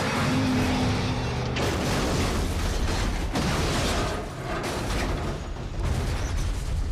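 Movie soundtrack: music mixed with booming hits and mechanical clatter.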